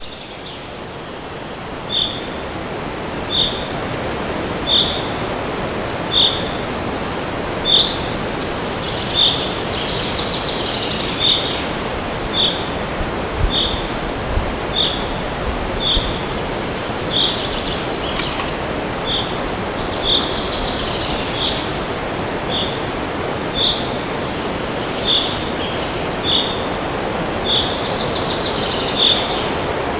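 Steady wind rushing through forest trees. Over it, one bird repeats a single short high call about every second and a half, and another bird's brief twittering song comes in a few times.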